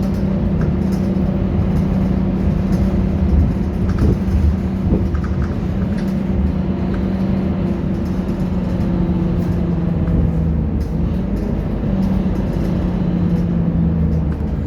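Scania K230UB Euro 4 bus's diesel engine running steadily with a constant low hum.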